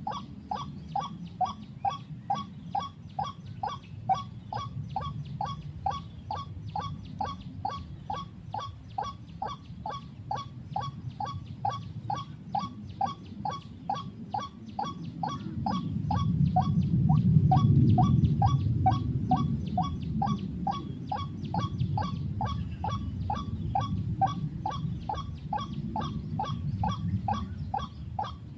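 White-breasted waterhen call: a short croaking 'kwak' note repeated very evenly, about two and a half times a second, without a break. Under it a low rumble swells up around the middle and then eases off.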